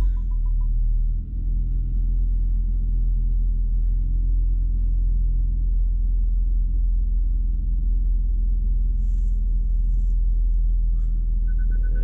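BMW E60 M5's V10 engine running steadily at low revs while still cold from a cold start. A parking proximity sensor beeps rapidly in the first second, and again faster and higher-pitched near the end.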